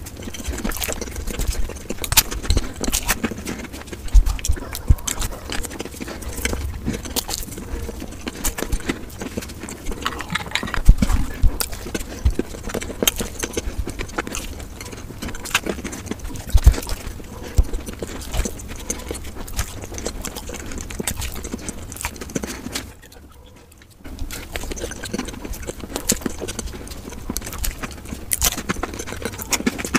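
Close-miked chewing of fried samosas: the crisp pastry crunches and crackles in dense, irregular clicks. It drops out briefly about three-quarters of the way through.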